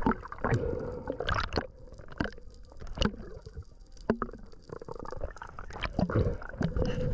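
A spearfishing diver breathing very hard in uneven surges, with gurgling and sloshing water.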